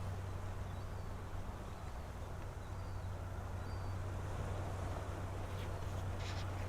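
Steady seaside ambience: an even wash of surf and wind over a constant low rumble, with a few faint, short bird chirps.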